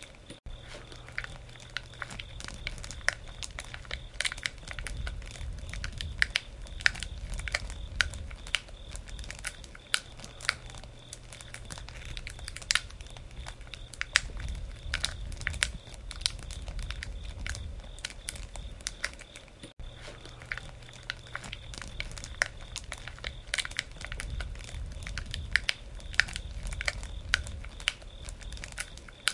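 Wood campfire burning, crackling with many irregular sharp pops over a low rumble.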